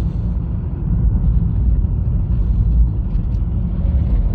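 Steady low road rumble of a 2020 Honda Fit driving on a snowy winter highway, heard from inside the cabin: tyre and running noise.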